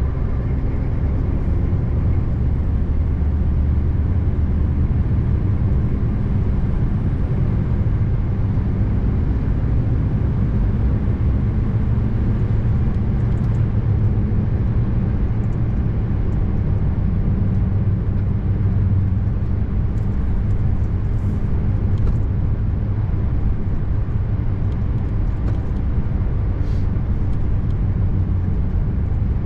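Scania R590 tractor unit's 16-litre V8 diesel running at a steady cruise, heard from inside the cab as a low, even drone with tyre and road noise over it.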